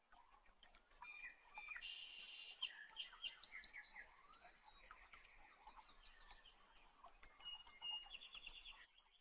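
Faint birdsong: small birds chirping, with quick trills of rapidly repeated notes about two seconds in and again near the end.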